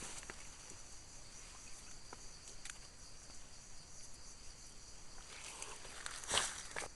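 Insects, crickets or cicadas, making a steady high-pitched drone in the forest, with a few light clicks and a brief rustle a little after six seconds in.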